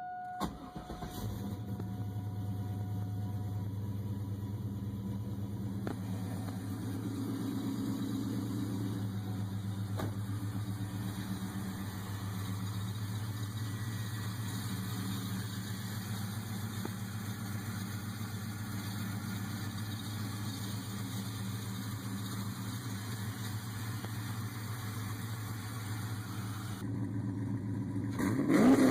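A car engine catches and settles into a steady idle, then is revved near the end, rising in pitch and getting louder.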